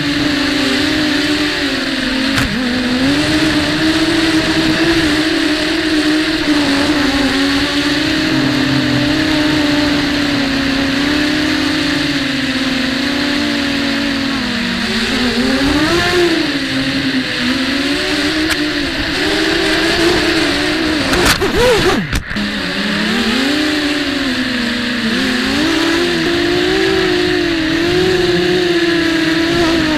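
WarpQuad 200 quadcopter's four small brushless motors (RCX 1306 2300kV) and 5030 props, heard from the onboard camera, droning steadily with a pitch that keeps rising and falling as the throttle is worked, over a constant hiss. The sound briefly breaks up about three-quarters of the way through.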